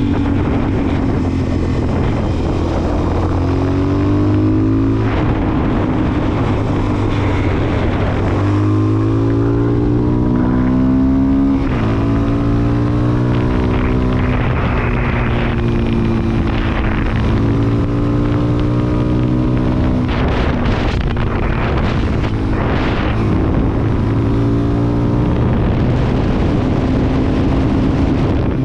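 Suzuki DR-Z400SM's single-cylinder four-stroke engine under way, its note rising and falling repeatedly with throttle and gear changes. Wind rushes over the microphone throughout.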